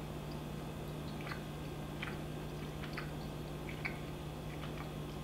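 A person chewing a mouthful of cheese-stuffed pizza crust, its texture chewy and doughy. Faint, irregular moist mouth clicks come about one to two a second over a steady low hum.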